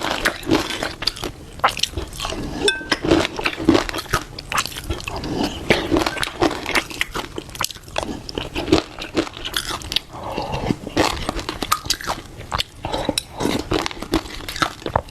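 A person chewing and biting into shrimp with fish-roe sauce: a dense, irregular run of crunches and wet clicks.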